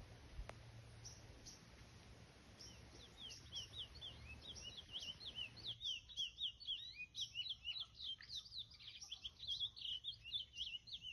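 Brown-plumaged curió (chestnut-bellied seed-finch) singing a long run of rapid, quick-sweeping chirps. The song starts sparse a few seconds in and becomes a dense, continuous twitter from about halfway through.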